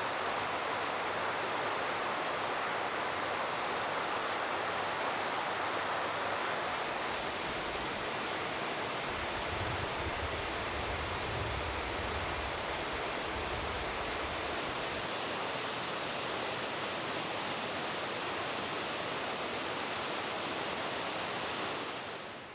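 Steady rush of falling water, with a low rumble added from about nine to fifteen seconds in, fading out at the very end.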